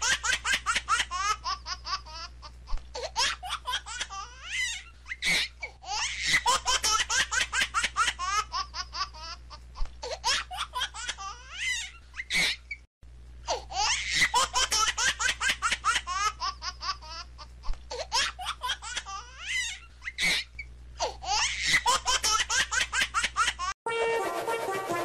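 A recorded track of laughter in bursts of rapid peals, the same stretch looped and played twice. It is cut off suddenly about a second before the end by music with brass.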